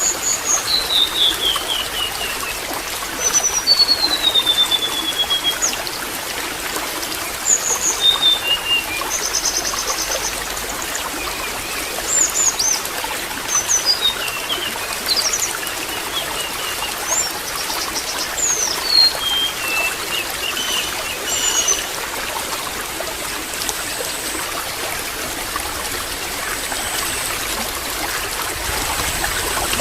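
Water trickling steadily, with birds calling over it: short descending whistles and sharp chirps come and go through the first two-thirds, then die away.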